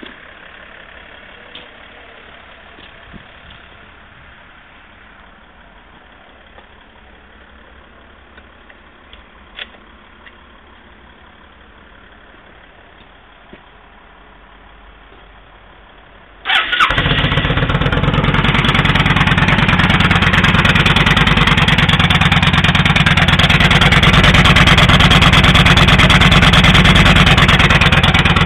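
Quiet with a few faint clicks, then about two-thirds of the way in the Yamaha Midnight Star 1300's V-twin starts suddenly and runs steadily and loudly through an aftermarket Speedstar Competition Long Drag exhaust.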